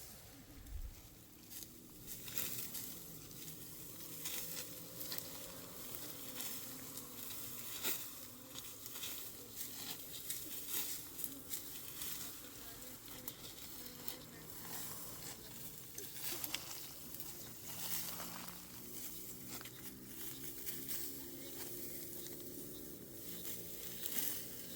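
Food frying in a pan: a steady sizzle with many irregular sharp crackles and pops.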